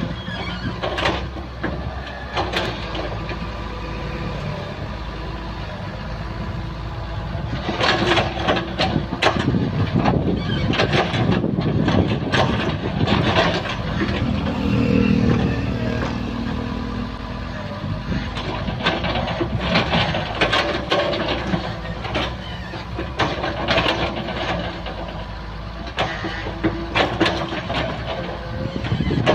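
Excavator working: its diesel engine runs steadily while metal clanks and knocks come from the machine as it digs and levels earth. About eight seconds in the work gets louder and busier, with the engine pulling harder under load.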